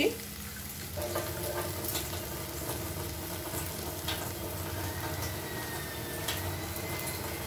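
Banana-flower and mashed-potato filling frying in a kadai with a low, steady sizzle, with the odd light scrape of a spatula as it is stirred.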